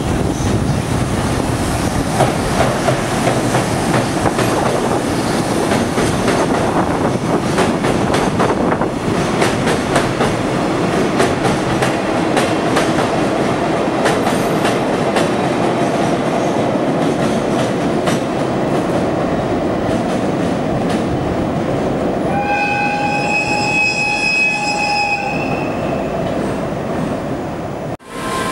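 A freight train hauled by an EF65 electric locomotive rolls past on the tracks, its wheels rumbling steadily with clickety-clack over the rail joints. About 22 seconds in, a train horn sounds one steady tone for about three seconds.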